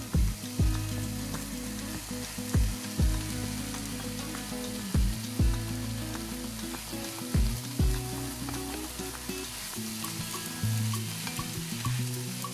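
Food sizzling and frying in oil in a pan, with fine crackling throughout. Over it runs background music: a stepping bass line and pairs of heavy beats about every two and a half seconds.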